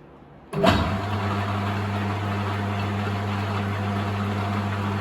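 Metal lathe switched on about half a second in: a sharp start, then the motor and 4-jaw chuck spinning steadily with a low hum, turning a cast iron gym weight on an arbor.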